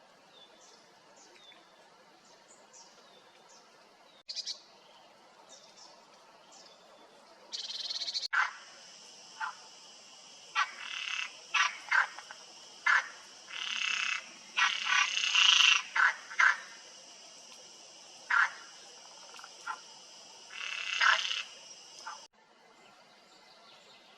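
Pond frogs croaking: faint short chirping calls at first, then from about eight seconds in a run of loud, repeated croaks over a steady high-pitched chorus, which cuts off abruptly near the end.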